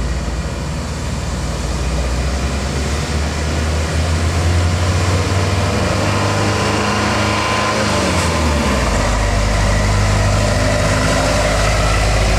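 Heavy truck diesel engine running under load; its note slides down about six to eight seconds in, then holds steady.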